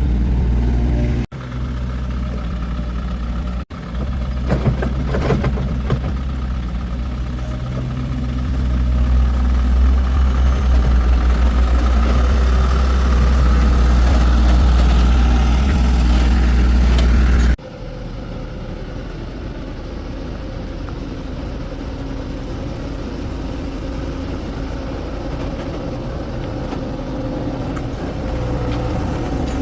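A vehicle engine running steadily with a strong low drone, its revs slowly climbing through the middle. The sound cuts off abruptly and changes several times, most sharply about two-thirds of the way in, after which the engine is quieter.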